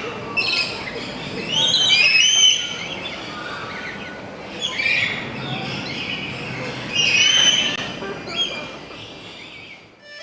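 Birds calling in several bunches of shrill chirps and whistling, sliding calls, over a low background hiss.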